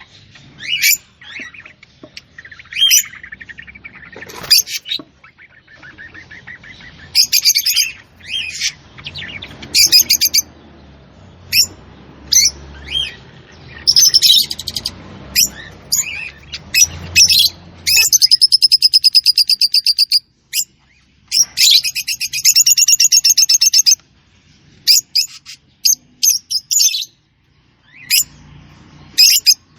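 Small bird chirping: a run of short, high chirps, with two long rapid trills a little past the middle.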